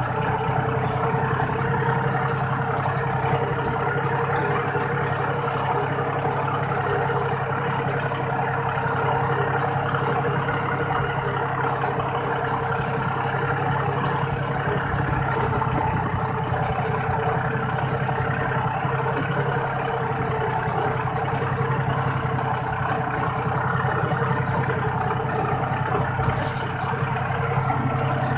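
Iseki 40-horsepower tractor's diesel engine running at a steady, unchanging speed through an aftermarket 'fuel-saving' exhaust pipe, heard from the driver's seat.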